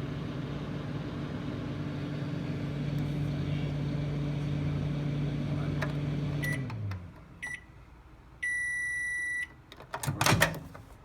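Whirlpool microwave oven running with a steady hum, which winds down and stops about seven seconds in at the end of a 10-second timed run. Two short beeps follow, then one long beep of about a second signalling the cycle is done, then a loud clunk near the end.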